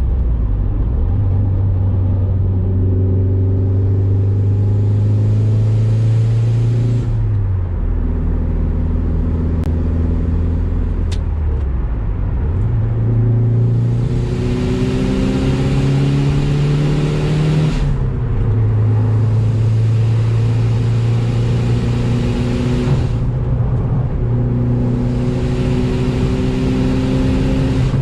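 Mitsubishi Lancer Evolution VIII's turbocharged four-cylinder engine running through an Invidia aftermarket exhaust while driving. The engine pitch climbs gently, then drops several times, about every five seconds, as at gear changes.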